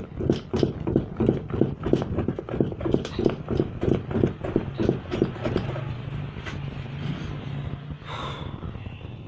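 Thick liquid-soap mixture being stirred by hand, a quick rhythmic slapping at about three to four strokes a second that stops about five and a half seconds in. A low steady hum carries on after the stirring stops.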